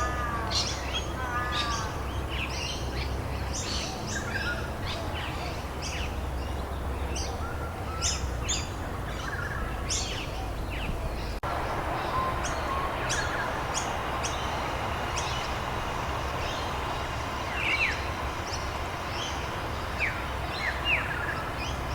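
Many birds chirping and calling over a steady hiss of rain, with an abrupt change in the background about halfway through.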